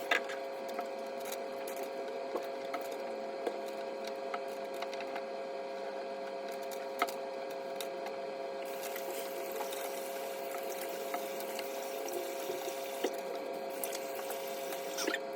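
Tap water running steadily into a bathroom sink during face washing, with a constant tone and small scattered splashes and clicks.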